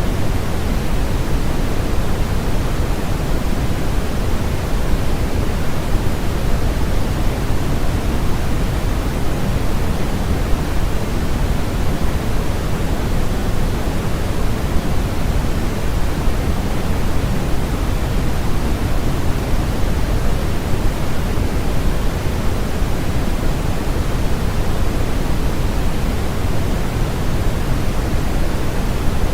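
Steady generated noise for sleep: a constant, even hiss with more weight in the low end than the high, unchanging throughout.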